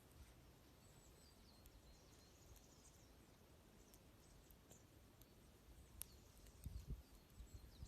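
Faint high chirps and short calls of small songbirds, over and over, with scattered sharp clicks of a crackling wood fire. A low rumble rises near the end.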